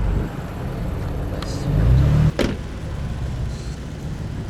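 Car engine running low, rising briefly in a short rev about two seconds in that cuts off abruptly with a single sharp crack, then settling back to a steady low rumble.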